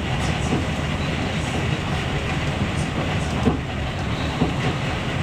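Moving passenger train heard from inside the carriage: a steady rolling rumble of wheels on rails, with a couple of short knocks from the track about midway.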